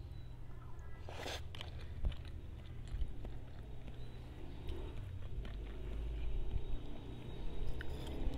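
Close-miked chewing of instant noodles, with one short slurp about a second in as a chopstick-load of noodles goes into the mouth, then small wet mouth clicks, over a steady low hum.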